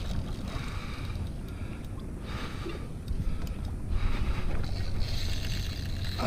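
Wind buffeting the microphone aboard a small fishing boat: a steady, noisy, low rumble with a hiss above it.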